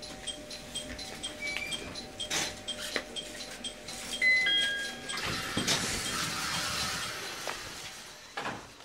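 Sounds on board an E721 series electric train halted at its terminus: a rapid, even series of short high electronic beeps, about three a second, with a few short chime tones. A knock comes about four seconds in, followed by a rush of hissing air, and everything fades out near the end.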